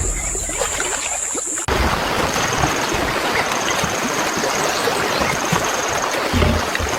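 A steady high insect trill over a low rumble, then, under two seconds in, a sudden cut to loud rushing river water with a faint insect chirping coming and going above it.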